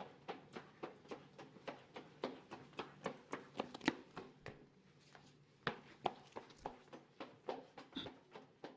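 Footsteps walking along a hallway floor: a quick, even run of shoe taps, about three a second, with a brief lull about four to five seconds in.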